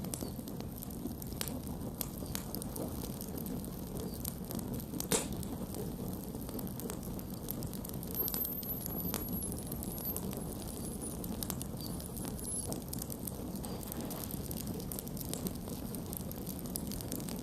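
Campfire burning with a steady low rumble and scattered crackles and pops, one sharper pop about five seconds in.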